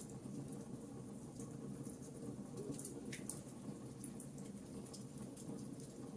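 Wood fire crackling in a fireplace: scattered small snaps and pops over a steady low rumble of the burning logs.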